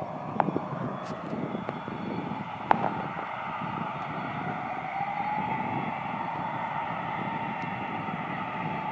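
Jet aircraft engines running, a rumbling noise with a whine that rises slightly about five seconds in and then holds steady. Two sharp clicks come in the first few seconds.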